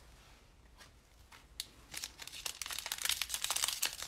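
Plastic trading-card pack wrapper crinkling and being torn open, a quiet start followed by a dense run of sharp crackles from about a second and a half in.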